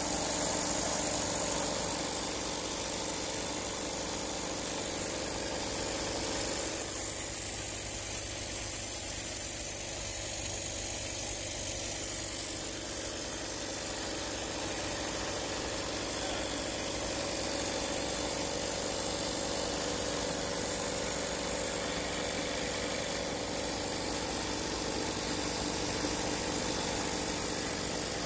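Jensen 20-S model steam engine running fast and smoothly under steam, driving a small generator whose whir makes most of the noise. It is a steady mechanical run with several level tones and a high hiss. It swells a little for a few seconds, then drops back about ten seconds in.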